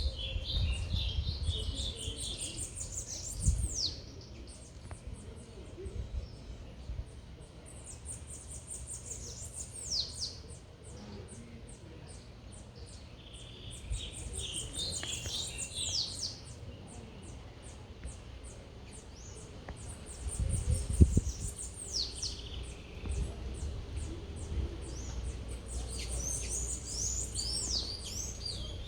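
Small birds singing, high chirping phrases with quick down-sweeping notes that come back every few seconds, over a steady low rumble of city background noise that swells briefly twice.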